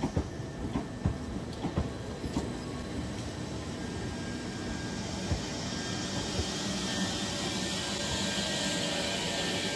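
Electric train on the move: a few sharp knocks from the wheels in the first seconds, then a steady hum and hiss that builds from about six seconds in.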